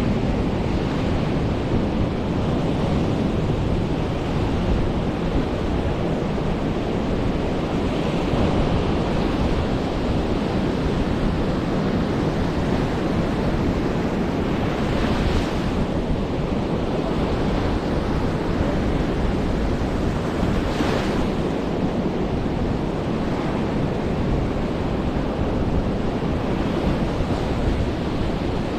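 Surf rolling in and washing up a black-sand beach, with wind buffeting the microphone. The wash hisses louder briefly about halfway through and again a few seconds later.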